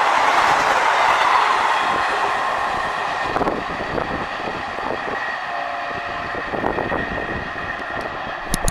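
Coaches of an express passenger train rolling past at speed, the wheels clattering over the rail joints, with the rush of noise fading steadily as the train draws away. Two sharp clicks sound near the end.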